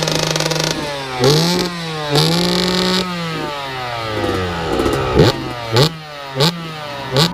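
Simson moped's single-cylinder two-stroke engine running at a steady speed, then revved: two longer revs that rise and fall, followed by four short, sharp throttle blips.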